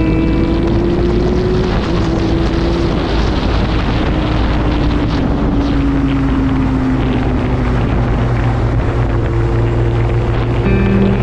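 Kawasaki H2's supercharged inline-four engine running steadily while riding, its pitch rising a little at first and then easing off, with wind rushing over the microphone.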